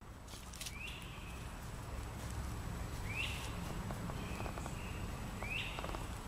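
A bird calling three times, a short rising chirp each time about two and a half seconds apart, over a low steady rumble, with faint scratching and ticking of a squirrel digging in soil.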